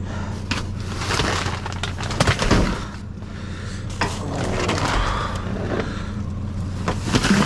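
A truck engine running steadily under irregular rustling and clattering.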